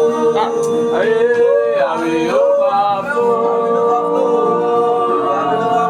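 A male voice sings a sliding, melismatic worship line over held accompaniment chords.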